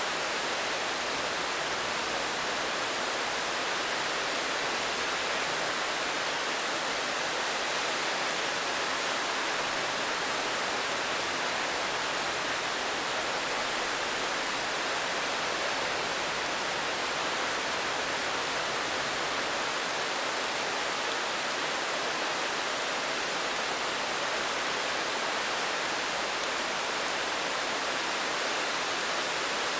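Steady rain: a constant, even hiss with no separate drops or other events standing out.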